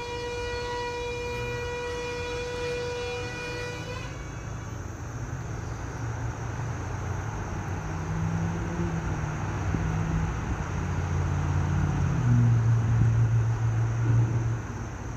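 A freight train's horn sounds one long steady blast that cuts off about four seconds in. The train's low engine rumble follows and grows louder, at its loudest near the end.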